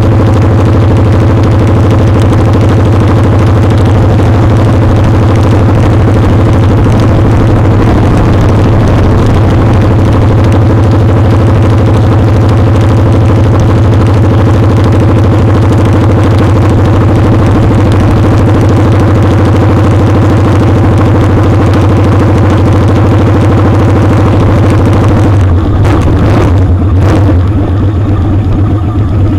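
Motorcycle engine running steadily at a held speed, recorded close to the engine, with a wide rush of wind and road noise over it. About three-quarters of the way through, the engine note shifts briefly and a few short knocks are heard.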